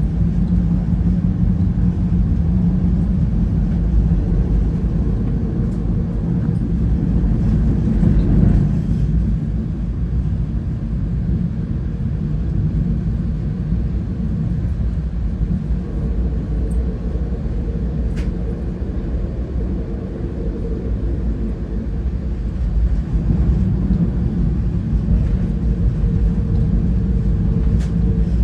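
Steady low rumble of a moving passenger rail car heard from inside, its wheels rolling over the track, with a few faint ticks.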